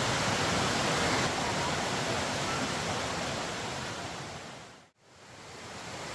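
Steady rushing water, an even hiss, which fades down to a moment of silence about five seconds in and then swells back up.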